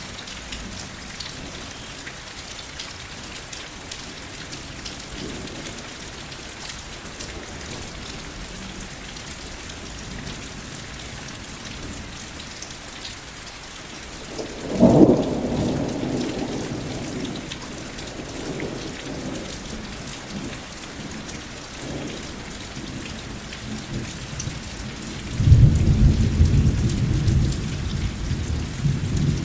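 Steady rain falling, with two thunderclaps: a sharp crack about halfway through that rolls off over a few seconds, and a longer, deep rumble that starts near the end and carries on.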